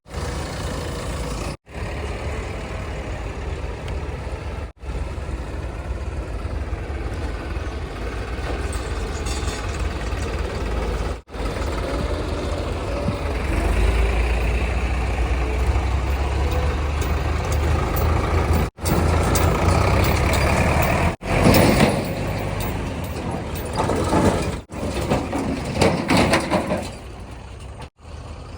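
Heavy diesel engines of a backhoe loader and tipper trucks running steadily. The sound breaks off briefly several times, and there are louder rough bursts in the last third.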